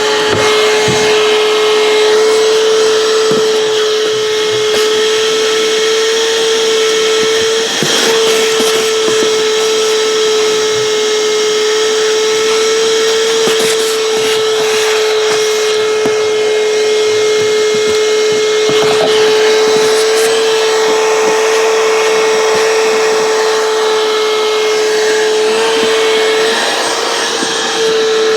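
Vacuum cleaner running steadily with a constant motor whine, and a few brief knocks partway through.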